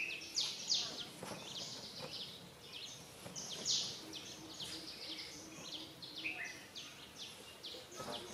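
Many small birds chirping in quick, short, high calls over a steady outdoor background noise.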